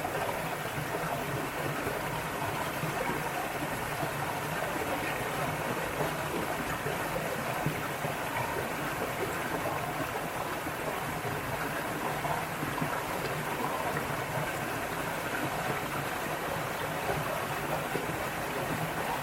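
Mountain valley stream flowing, a steady, even wash of water noise.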